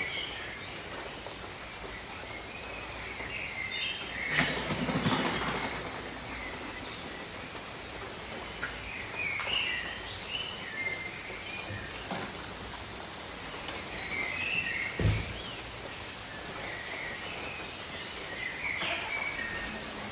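Steady gentle rain with birds chirping in short, scattered phrases. The rain swells briefly about four seconds in, and there is a soft low thump about fifteen seconds in.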